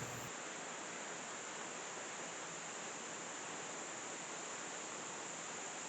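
Steady, even hiss of flowing water, with no distinct splashes or other events.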